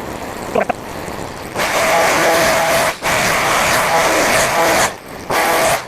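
Small gas engine of a grass-cutting tool running and revving. It opens at a lower speed, revs up about a second and a half in, and eases off briefly near the end.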